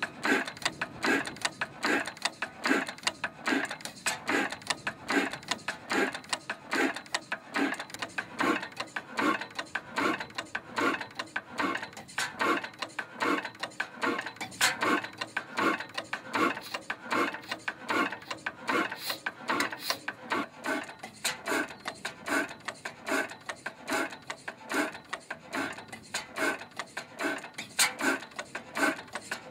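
Circa-1907 Blackstone four-stroke hot-bulb kerosene engine running at slow speed, with a steady, even beat of a little under two strokes a second.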